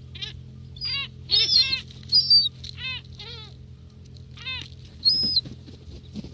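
Gulls calling while feeding: a run of short, repeated squawks, with three louder, higher shrieks, two close together in the first half and one near the end.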